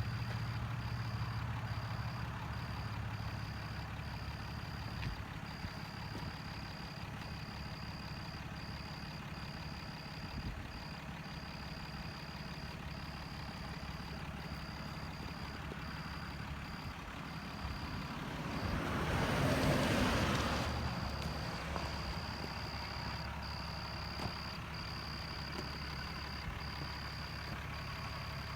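A truck running steadily with a low hum, under a steady high-pitched whine that drops out briefly now and then. About two-thirds of the way through, a vehicle passes with a rush that swells and fades over about two seconds.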